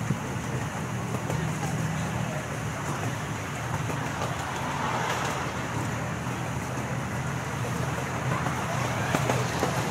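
Amusement-park ride train running steadily, heard from aboard: a continuous low rumble with a few faint clicks.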